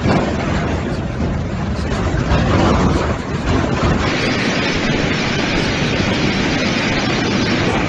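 Strong storm wind, a loud, steady rushing noise; about four seconds in it changes to a brighter hiss.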